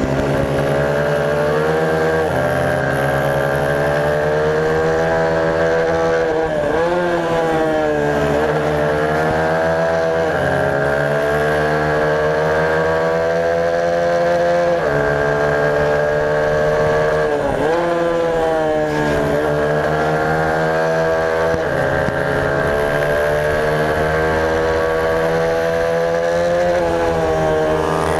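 Supermoto race motorcycle's single-cylinder engine at full racing pace, heard onboard: the engine note climbs hard, then drops sharply again and again as the rider shifts gears and brakes for corners. A steady rush of wind noise runs underneath.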